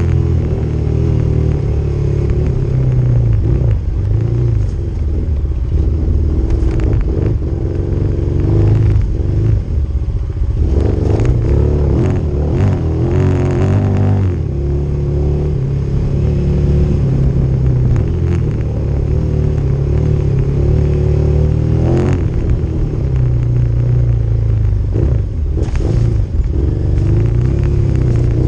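Motorcycle engine running while being ridden, its revs rising and falling with throttle changes. Several sharp knocks and scrapes come through, the loudest about 22 seconds in.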